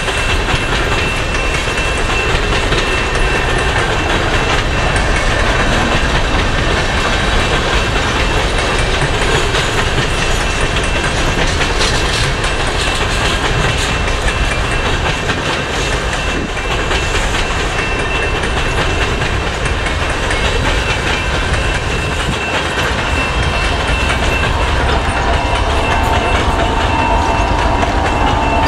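Long CP coal train of hopper cars rolling past steadily, steel wheels clicking over the rail joints, with a faint steady high-pitched squeal. Near the end a locomotive's sound grows louder as the mid-train unit approaches.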